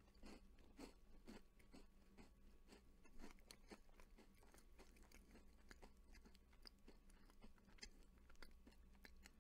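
Faint, close-up chewing of a soft, crumbly butter sandwich cookie: small crunches and wet mouth clicks, about two a second at first, then more irregular.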